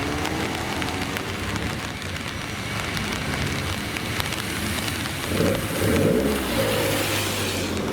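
Classic car's engine running under a steady rushing hiss; the engine note is faint at first and comes up again about five seconds in.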